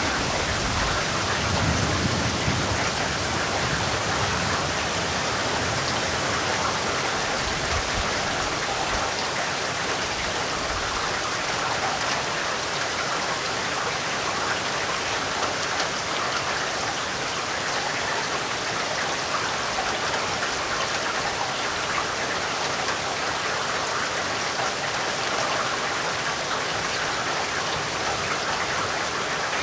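Steady, even rainfall pattering on a surface, with a faint low rumble in the first few seconds.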